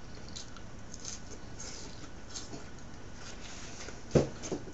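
Soft chewing and mouth noises close to the microphone, heard as faint scattered ticks. A sharp knock comes about four seconds in, followed by a fainter one.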